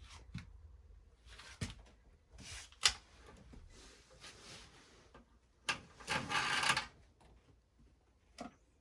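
Several sharp clicks and knocks, spaced a second or more apart, with a short rushing burst about six seconds in that is the loudest sound: handling of a gas water heater's pilot controls during an attempt to light the pilot.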